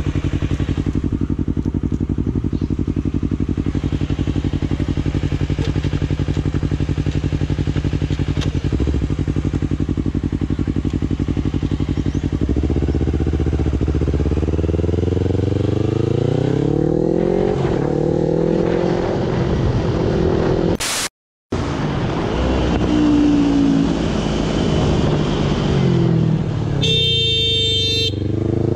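Motorcycle engine running at a steady pitch, then from about halfway revving up and down through the gears as the bike gets under way. The sound cuts out completely for a moment about two-thirds through, then engine noise rising and falling carries on, with a brief high-pitched tone near the end.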